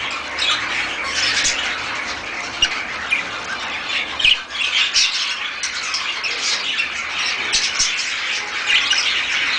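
A crowd of birds calling over one another: a continuous dense chatter of overlapping chirps and sharp squawks.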